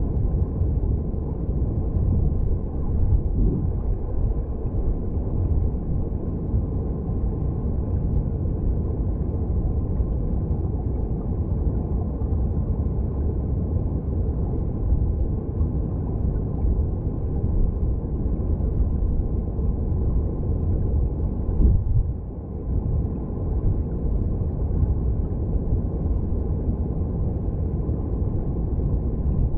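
Mountain stream heard underwater: a steady, low rumble of flowing water, with a brief dip in loudness about 22 seconds in.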